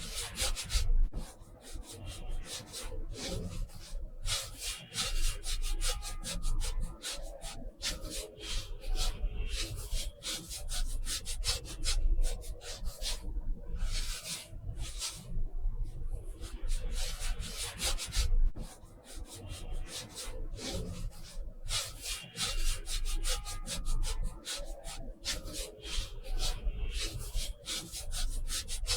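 Rapid, scratchy strokes of a drawing or painting tool rubbing across paper, in runs broken by short pauses, over a low steady hum.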